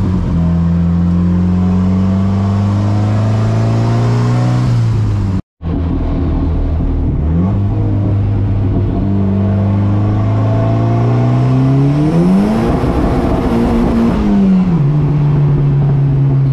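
450 hp turbocharged Volvo wagon's engine heard from inside the cabin, pulling under load with its pitch climbing slowly. The sound cuts out for an instant about five seconds in. About twelve seconds in the revs shoot up sharply, hold for a couple of seconds, then drop back.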